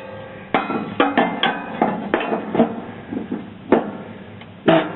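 Steel lawn tractor mower blades being turned and handled by hand: a series of uneven metallic clanks and clinks, each with a short ring.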